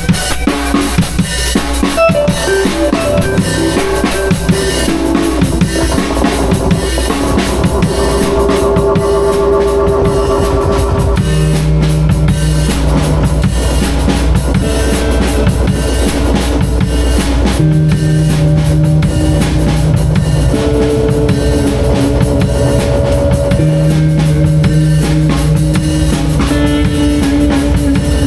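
Live band improvising: a drum kit plays busily and steadily under sustained instrument notes that shift to new pitches every few seconds.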